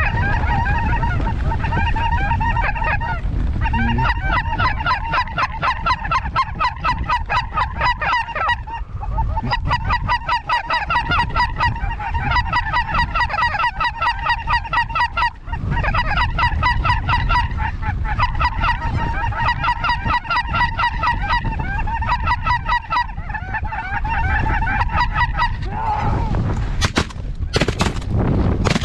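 Snow geese calling, a dense chorus of rapid, high honks with a few short breaks, over a low wind rumble on the microphone. Near the end, a quick series of shotgun blasts.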